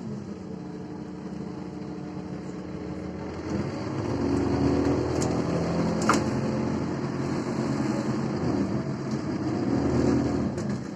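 A MAZ-203 city bus heard from inside the passenger cabin as it drives: its engine and drivetrain run steadily, growing louder about four seconds in and easing off near the end. There is one sharp knock about six seconds in.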